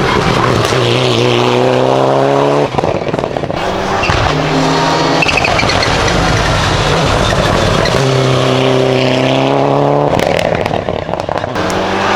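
Hill-climb race car's engine pulling hard under full throttle, the revs climbing and then breaking off at gear changes three times.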